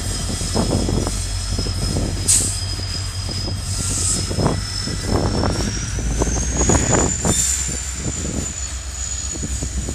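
Freight train wagons rolling past close by: a steady low rumble with irregular clanks and knocks from wheels and couplings, and a thin high whine above it that rises a little in pitch about six to seven seconds in.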